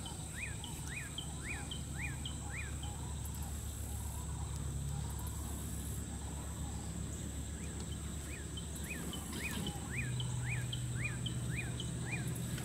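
A bird calls in two runs of short repeated notes, about two a second, over a steady high insect drone. A low rumble underneath grows louder about ten seconds in.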